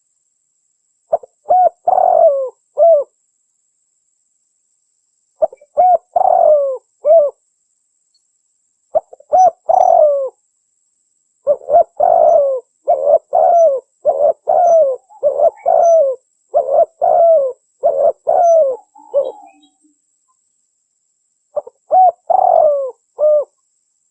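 Spotted dove (tekukur) cooing in repeated phrases of a few coos each, with a long run of rapid coos in the middle, played as a lure call for trapping wild doves. The gaps between phrases are dead silent, as in an edited recording.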